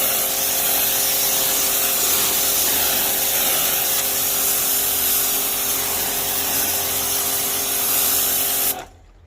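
Wilks USA RX 550i electric pressure washer spraying: a loud, steady hiss of the water jet over the motor and pump's hum, set to the 0-degree pencil-jet nozzle. It cuts off abruptly near the end.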